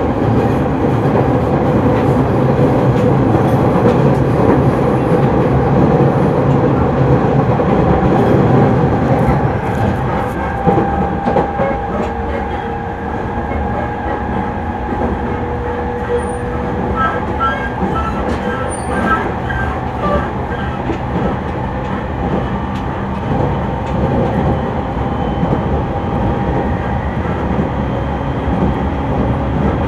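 JR 209 series electric train running along the track, heard from inside the car: a steady rumble of wheels on rail with occasional clicks, and faint steady whines from the running gear.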